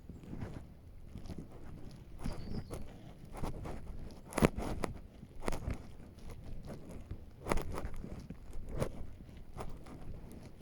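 Footsteps of a person walking on a forest path, irregular steps with a few heavier ones.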